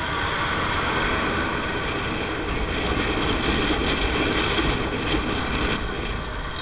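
Motorcycle riding noise: wind rushing over the microphone mixed with road and engine noise, swelling for a few seconds in the middle and easing toward the end.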